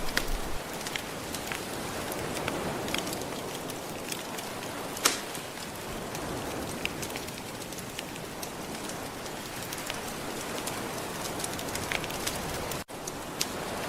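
Soft surf washing steadily, layered with a wood fire crackling in scattered sharp pops, one louder pop about five seconds in. The sound cuts out for an instant near the end.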